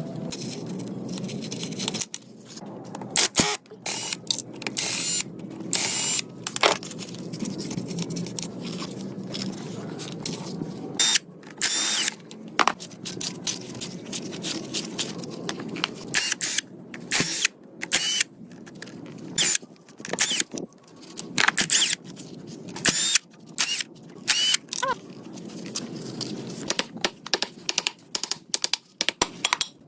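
Workshop tool noise: many short, irregular bursts of hissing noise over a steady low hum.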